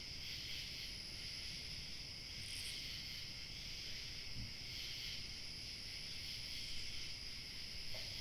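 A steady, continuous chorus of crickets chirping, over a faint low rumble of light wind.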